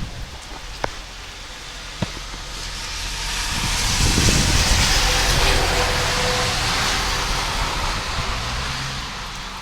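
A vehicle passing on a rain-soaked road: tyre hiss on the wet surface swells over a few seconds, peaks in the middle and fades away, over a low engine rumble and the steady rain. Two sharp clicks come in the first two seconds.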